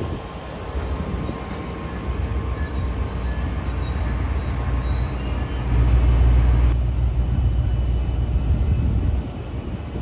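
Diesel-hauled passenger train running past, a steady low rumble that grows loudest about six seconds in and falls away near nine seconds.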